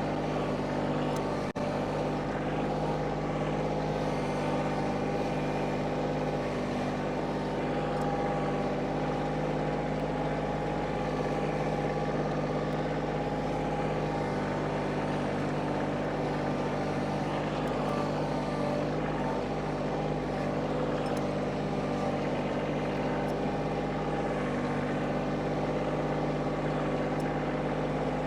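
Kioti CK2610 compact tractor's diesel engine running steadily at a constant speed, with a split-second dropout about a second and a half in.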